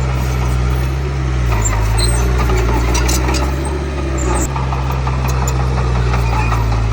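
Komatsu D31P bulldozer's diesel engine running steadily. Its pitch drops about one and a half seconds in and comes back up about a second later. A few faint squeaks and clinks sound over it.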